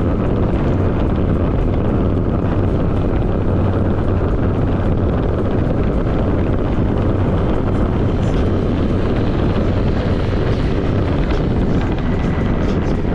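Honda PCX scooter on the move: steady wind rush over the microphone mixed with engine hum and road noise.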